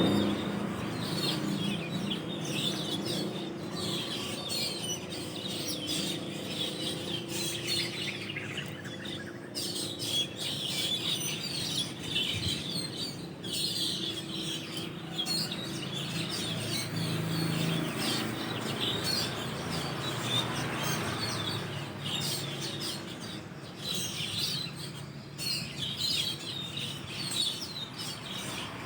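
A flock of Asian glossy starlings chirping and calling from their roost tree: many short, high, overlapping chirps with no pause, over a steady low hum.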